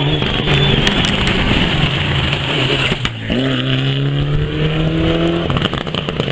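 Rally car engine at full throttle, with a brief dip about three seconds in, like a gear change. The revs then rise steadily for a couple of seconds before the driver lifts off near the end.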